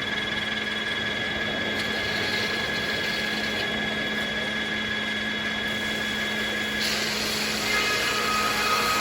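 Circular sawmill running steadily, a constant machine hum and whine over a hiss. The hiss turns brighter about seven seconds in.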